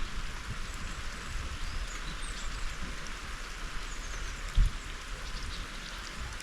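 Steady rain falling, an even hiss, with an uneven low rumble underneath and a single thump about four and a half seconds in.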